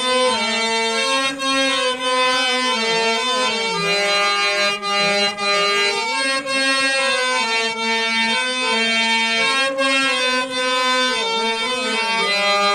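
Traditional Indian devotional folk music without singing: a harmonium plays a melody in held, reedy notes that slide between pitches.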